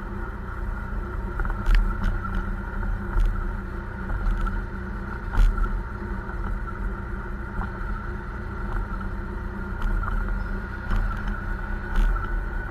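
Motorbike engine running steadily while riding along a road, with wind gusting on the microphone.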